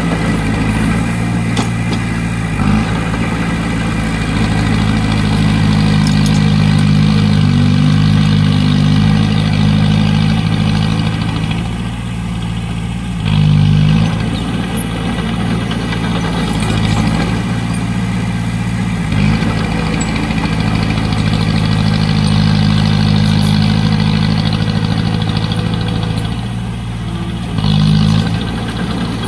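Heavy machinery diesel engine running steadily, with brief rises in revs about thirteen seconds in and again near the end.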